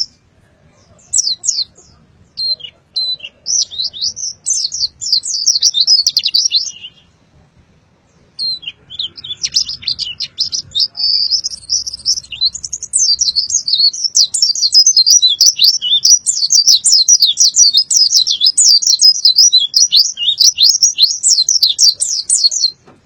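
A pleci (white-eye) singing in fast runs of high, rapid chirping notes. After a short break about a third of the way in, it goes into one long unbroken rolling run of song that stops just before the end.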